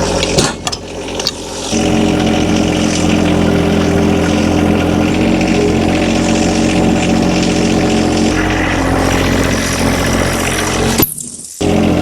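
An engine running steadily at a constant speed. It drops out briefly about a second in and again near the end.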